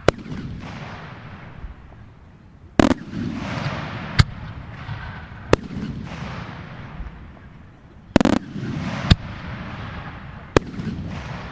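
Firework display of Italian spherical aerial shells: about seven sharp bangs, spaced one to three seconds apart, each trailed by a long rolling rumble.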